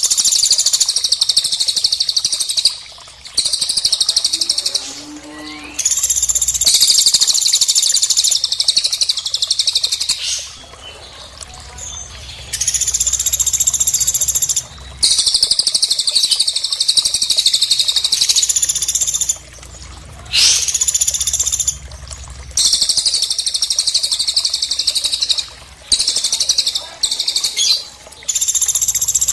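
Songbird song used for bird tutoring: long, very rapid, high-pitched trills in repeated bouts of a few seconds, separated by short pauses.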